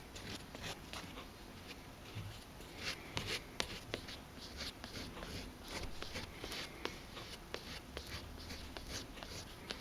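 Sandpaper rubbing over leather by hand, in short irregular scratchy strokes: sanding down a scuffed area of a leather chair.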